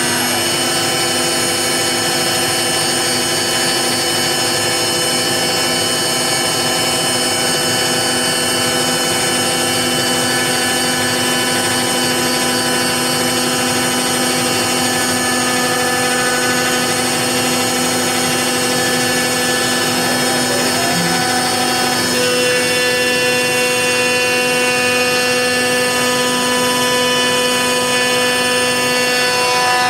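CNC router spindle with a 1/4-inch down-cut bit running and cutting out the shape of a laminated Karri hardwood neck: a steady, loud, high whine over a rushing cutting noise. The pitch of the whine shifts about two-thirds of the way through.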